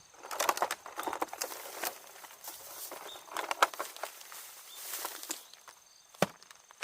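Metal spatula scraping and clattering against a frying pan while fried rice is stir-fried over a campfire: quick, irregular clicks and scrapes in bursts, then a single sharp knock near the end.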